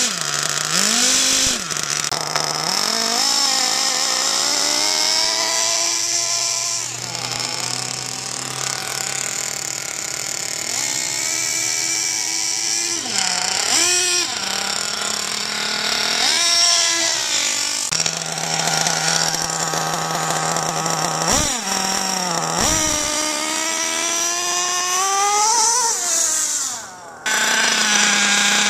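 Small glow-fuel (nitro) RC model engine running, its pitch repeatedly falling and climbing as the throttle is blipped and eased off. A few seconds before the end it drops away briefly, then comes back at a steady high idle.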